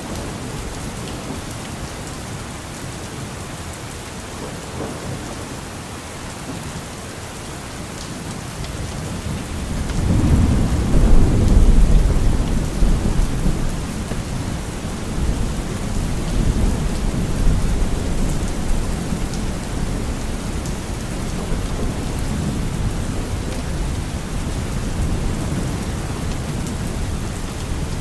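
Steady rain falling, with a long low rumble of thunder that swells about ten seconds in, peaks soon after and rolls on more weakly.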